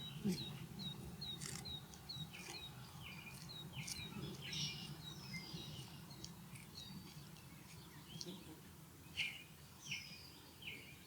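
Ospreys calling: a long series of short, high whistled chirps, several a second, each with a falling hook, over a low steady background rumble.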